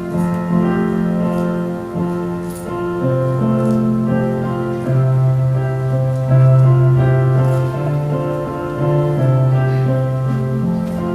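Slow instrumental keyboard music: held chords that change every second or two.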